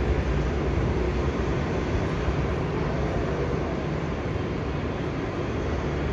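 Steady apron noise from an Airbus A330 pushback: the airliner's jet and auxiliary power unit noise mixed with its pushback tug. It holds at an even level with no distinct events.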